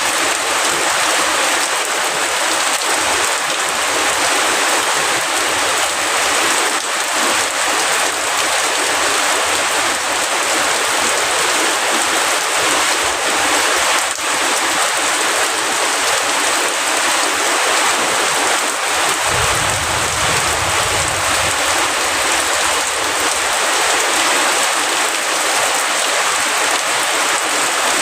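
Heavy rain falling in a steady, even downpour. A brief low rumble comes about two-thirds of the way through.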